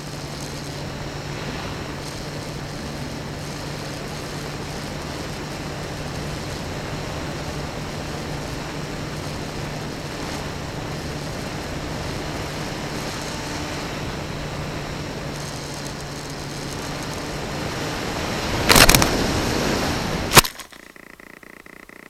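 Homemade FPV RC plane's motor and propeller with wind rush, heard from the onboard camera, a steady drone that grows louder as the plane dives. Near the end come a loud burst and a sharp bang, and the motor and wind noise cut off suddenly to a quiet hum: the plane crashing.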